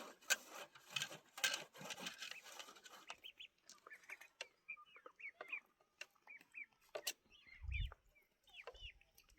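Chickens making short, high peeping calls that repeat from about three seconds in, after a couple of seconds of rustling and clicking. A single low thump comes near the end.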